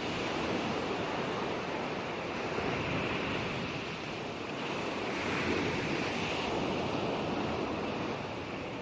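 Ocean waves washing onto the shore: a continuous rush of surf that swells again about five seconds in.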